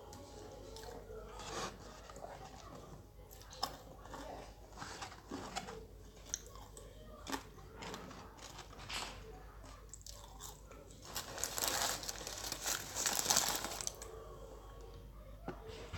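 Close-miked chewing and crunching of fast food, a fried chicken sandwich and fries, with scattered crisp bites and mouth clicks and a longer, busier stretch of noise near the end.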